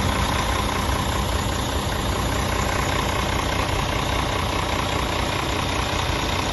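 Scania R 450 truck's inline-six diesel engine idling steadily.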